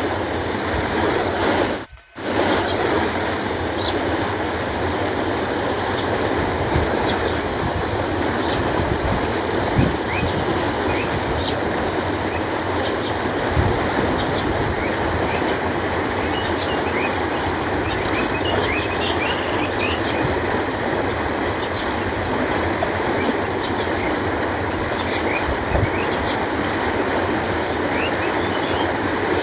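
Canal water flowing with a steady, full rushing sound. It cuts out for a moment about two seconds in. Short, high bird chirps are scattered over it.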